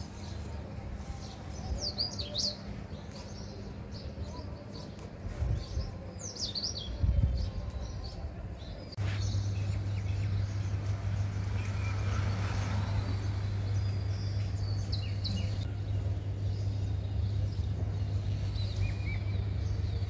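Small birds chirping in short, high calls over a steady low hum, which becomes louder about halfway through.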